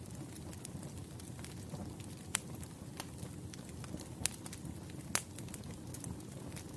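Firewood campfire burning: a steady low rumble of flames with scattered sharp crackles and pops, a few louder pops standing out.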